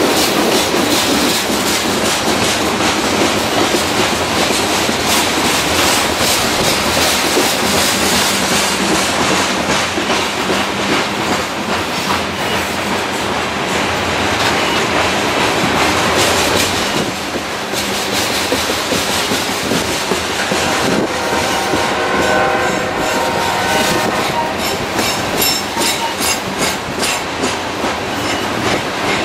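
Loaded coal hopper cars rolling slowly past, their steel wheels clattering and clicking over the rail joints in a steady, rumbling stream. A faint high-pitched tone rises over the clatter for a few seconds about three quarters of the way through, and the clicking grows sharper and more rhythmic near the end.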